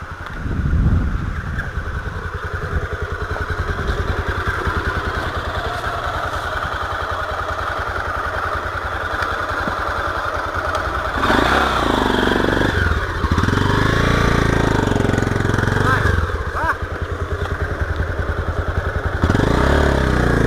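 Single-cylinder motorcycle engine running under way, its firing pulses steady at first, then louder and revving up and down from about halfway through.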